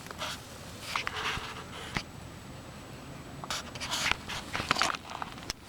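Irregular scratchy rustling and scraping noises in short bursts, with a sharp click about two seconds in.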